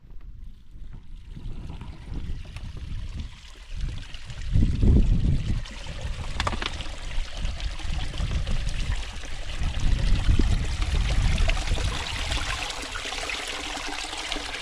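Spring water trickling and splashing from a mountain spring, growing louder toward the end, with heavy low rumbling about four to five seconds in and again around ten seconds.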